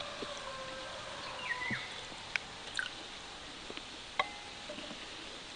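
A few sharp, isolated pops from a wood cooking fire over a steady outdoor background, with short bird chirps in between.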